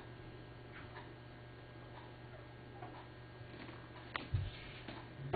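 Faint light clicks and taps from handling ingredients and containers at a kitchen counter, with one sharper click a little after four seconds in followed by a short low thump, over a steady low electrical hum.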